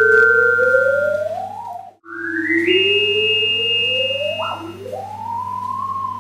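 Computer-generated electronic tone from an interactive installation's speakers, gliding smoothly upward in pitch like a theremin. It cuts out about two seconds in, then starts low again and climbs. The rising pitch is the sign of a person walking anticlockwise around the room, which drives the tone up.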